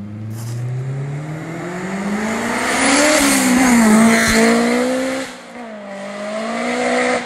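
Turbocharged Honda S2000's F20C four-cylinder engine accelerating hard toward and past the listener, its pitch climbing and then dropping as the car goes by. About five seconds in the sound briefly dips, then the engine pulls again, rising in pitch as the car drives away.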